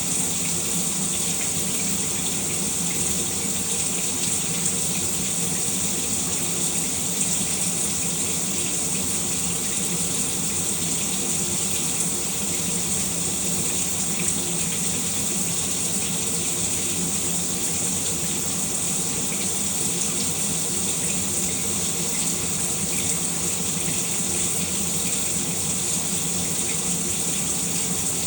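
Shower running steadily, a constant hiss of water spray falling, with no change in flow.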